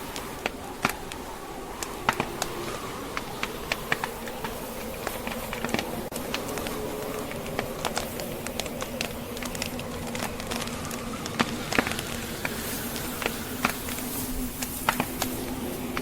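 Wood fire crackling, with frequent irregular sharp pops, over the steady rushing of blizzard wind. A faint low steady tone runs underneath.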